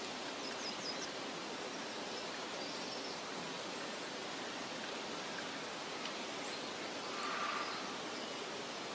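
Steady meadow ambience: an even hiss of soft wind, with a few faint high bird chirps about half a second in and a faint call near the end.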